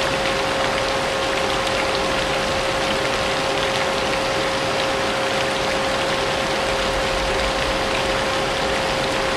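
Vacuum cleaner running steadily, its motor holding one constant whine, mixed with the even hiss of rain with a few faint drop ticks.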